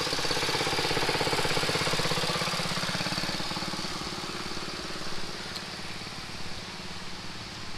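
An engine running with a steady, rapid pulsing beat. It is loudest in the first few seconds and fades away after about four seconds, as if moving off.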